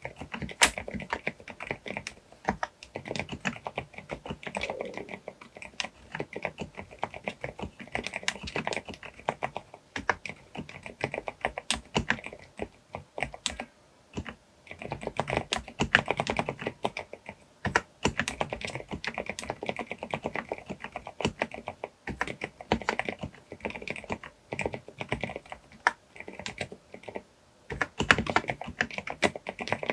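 Typing on a Groovestone GV10M-8K mechanical keyboard with silent (low-noise) brown switches, 38 g: a fast, continuous run of keystrokes with a few short pauses.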